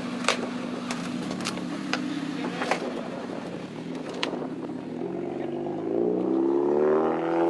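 Car engine running steadily, with a few sharp clicks in the first half. About five seconds in, an engine revs up, rising in pitch and getting louder, as a car pulls away.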